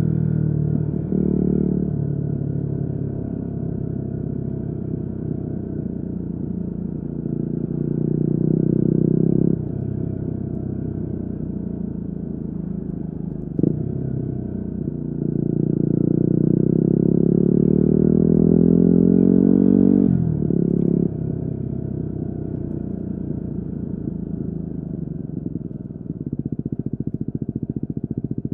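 Yamaha WR250R's single-cylinder four-stroke engine through an FMF Q4 exhaust, revving up through the gears and dropping back as the throttle closes, several times, with one long climb in pitch before a sudden drop. Near the end it settles into a slow, even pulsing at low revs.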